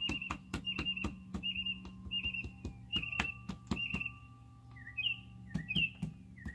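A bird chirps over and over, a short call about twice a second, turning to rising calls near the end. Irregular sharp clicks and taps and a steady low hum run underneath.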